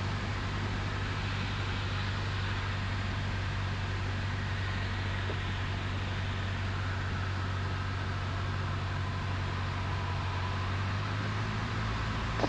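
1977 Cessna 172N's four-cylinder Lycoming engine and propeller droning steadily in flight, heard from the cockpit. The low hum shifts slightly near the end.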